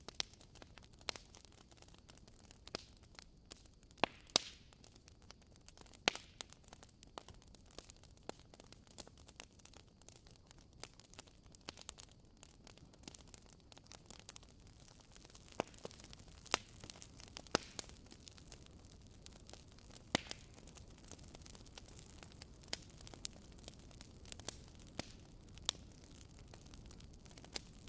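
Wood fire in a fireplace crackling, with irregular sharp pops and snaps from the burning logs over a soft steady hiss of flame.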